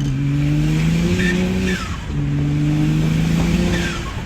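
BMW 135i accelerating hard through the gears: the engine note climbs slowly, breaks at a shift about two seconds in, climbs again and drops near the end. A short falling turbo whistle comes just before each shift as the throttle lifts.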